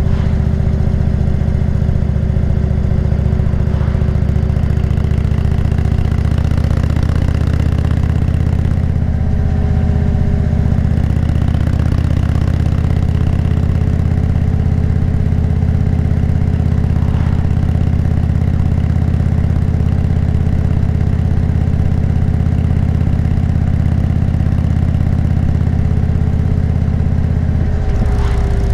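Motorcycle engine running steadily at cruising speed, with wind and road noise. The engine note holds nearly constant and shifts briefly near the end.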